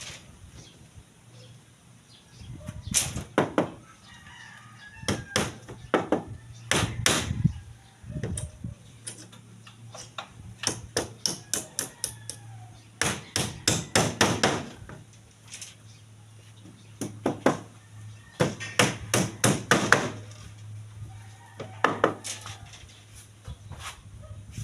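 Bursts of rapid hammer strikes during rebar work, in quick runs of several blows each with quieter pauses between.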